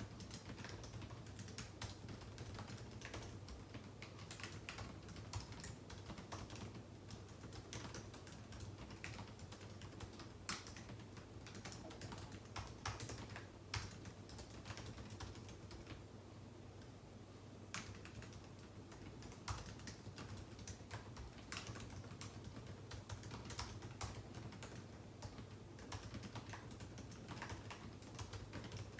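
Typing on a computer keyboard: quick, irregular key clicks with a short pause about halfway through, over a steady low hum.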